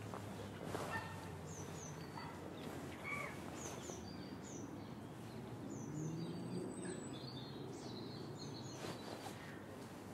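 Small birds chirping repeatedly in short, high, falling notes over a steady low background hum.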